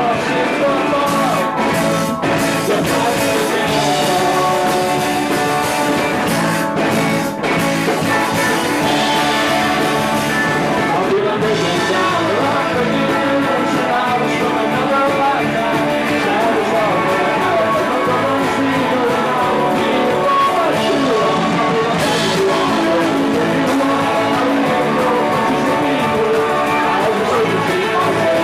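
Live rock band playing a song, guitar to the fore.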